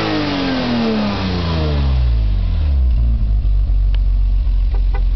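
BMW E34 M5's straight-six engine dropping back from a rev, its pitch falling steadily for about two and a half seconds before it settles into a steady idle. A few faint clicks near the end.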